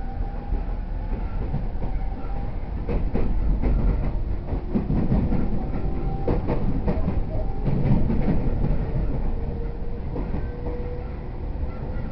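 Cabin running noise of a JR E231-0 series electric train between stations: a steady low rumble, with the wheels clicking over rail joints in a cluster from about three to eight seconds in. Faint whining tones drift slowly in pitch underneath.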